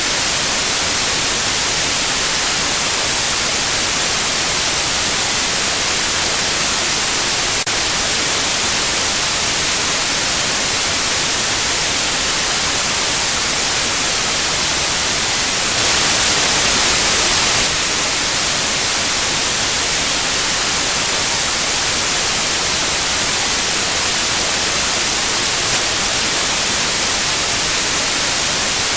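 Steady synthetic white noise with a thin, continuous high-pitched tone at 9645 Hz: a tinnitus-masking therapy track. The hiss grows briefly a little louder about 16 seconds in.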